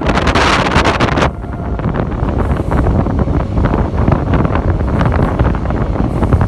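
Passenger train running on the line, wheels clattering over the rail joints under a steady rumble, with wind buffeting the microphone. A louder rush in the first second or so drops away abruptly.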